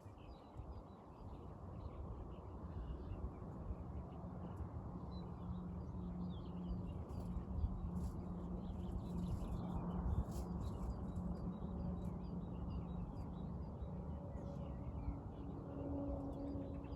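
Small birds chirping faintly and sporadically over a steady low rumble, with a low steady hum through much of it.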